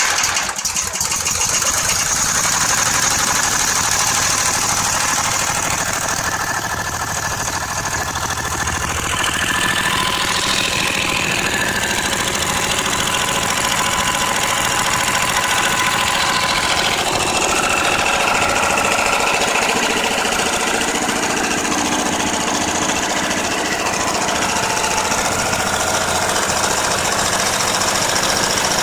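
Briggs & Stratton 14.5 hp small engine running steadily.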